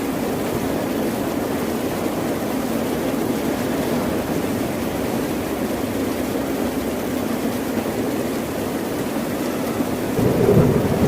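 Ocean surf: a steady, low wash of waves with a louder surge about ten seconds in.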